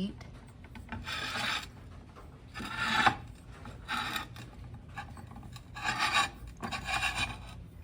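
Rasping, rubbing handling noise: five separate strokes, each under a second long.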